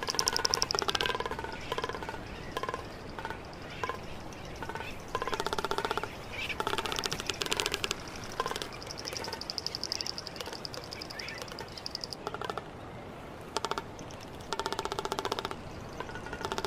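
Greater frigatebird calling: bouts of very fast rattling, trilling pulses, each lasting a second or two, repeated several times with short pauses between.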